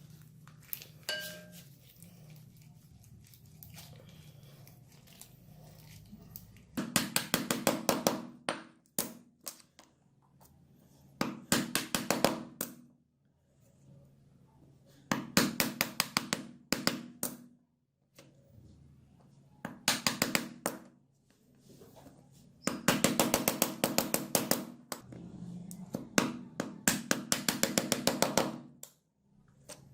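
Hand work on rusty metal pliers: six runs of rapid back-and-forth scraping or scrubbing strokes, each lasting a second or two, with short pauses between.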